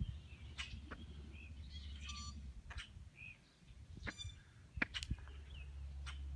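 Birds giving short chirps and calls here and there, over a low steady rumble that drops away in the middle and comes back near the end.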